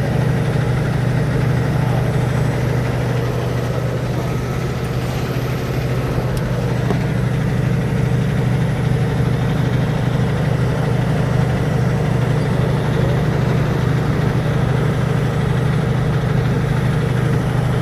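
Semi truck's diesel engine running steadily, a low even drone with no change in pitch.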